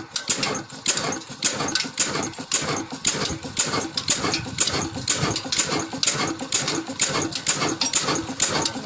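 Antique engine running at a steady, even pace: a regular beat of sharp firing strokes, a few a second.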